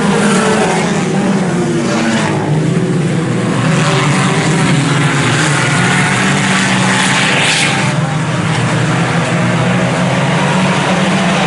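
A field of IMCA Sport Compact race cars with four-cylinder engines running together on the track, a steady engine drone with some rising and falling revs.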